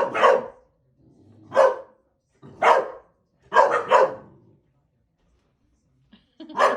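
A dog barking in short single and double barks, about six of them over several seconds, with pauses between.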